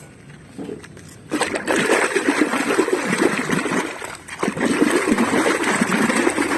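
Water splashing and trickling over a muddy toy car as it is washed. It starts suddenly after about a second of near quiet and carries on unevenly.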